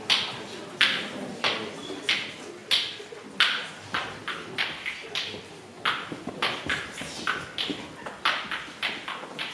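Folk spoons played as percussion: sharp clacks at a steady beat of about three strokes every two seconds, breaking into quicker doubled strokes about six seconds in.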